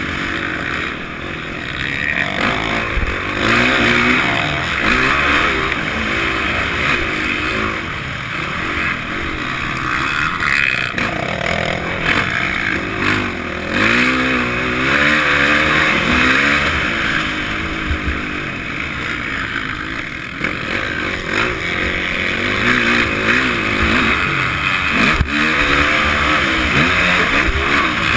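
Honda CRF450 dirt bike's single-cylinder four-stroke engine being ridden hard, its pitch rising and falling again and again as the throttle is opened and closed. Wind noise on the helmet-mounted microphone.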